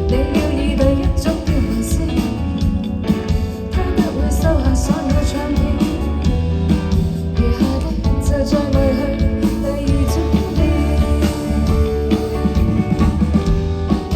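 Live band music: strummed guitars and bass over a drum kit, with a voice singing over them.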